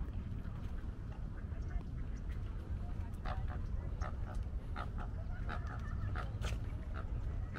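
Birds calling: a string of short, repeated calls that starts about three seconds in, over a steady low rumble.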